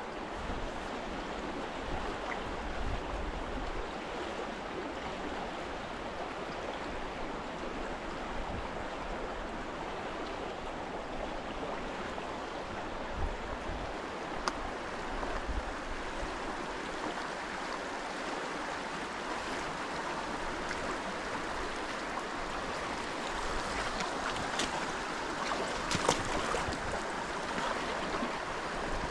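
Steady rushing of a river's flowing water, with a few faint taps about halfway through and near the end.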